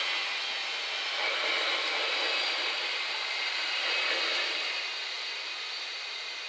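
Desiro electric multiple unit passing over a level crossing: a steady rush of wheels and running gear that fades after the last car clears, about four and a half seconds in.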